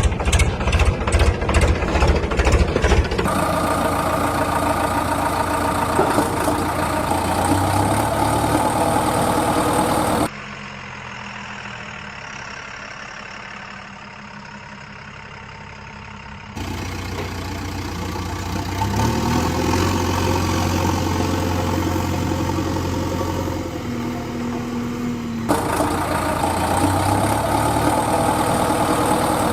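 Engines of a JCB backhoe loader and dump truck running steadily at idle, in several clips joined with abrupt cuts, one of them noticeably quieter.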